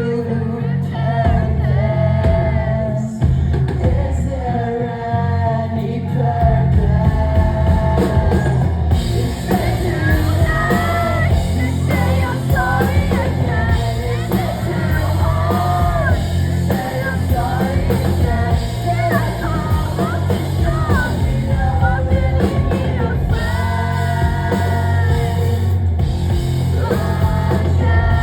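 Live rock band playing a heavy song: sung lead vocal over electric guitar and drums. The band gets fuller and louder about nine seconds in.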